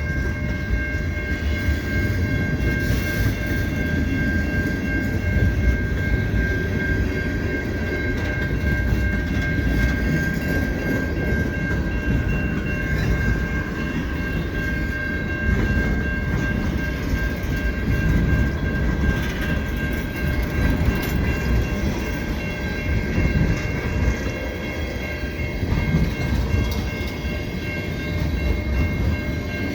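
Freight cars of a long, slow freight train rolling through a level crossing: a steady rumble and clatter of wheels on rail, with a steady high-pitched ringing tone held over it.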